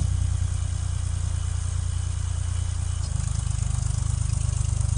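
A vehicle engine running steadily, a low rumble with a fast, even pulse.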